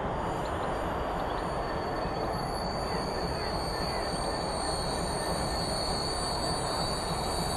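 Freight train rolling past, steady rumble of wagons on the rails with a thin, steady high-pitched wheel squeal.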